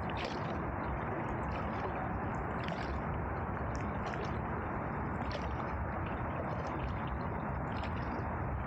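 Water splashing and gurgling as a canoe is paddled, with a short splash from a paddle stroke about every two and a half seconds over a steady rushing noise.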